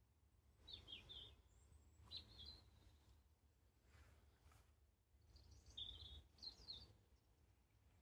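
Faint small birds chirping and twittering in short bursts, three groups in all, the fullest one near the end, over a steady low rumble.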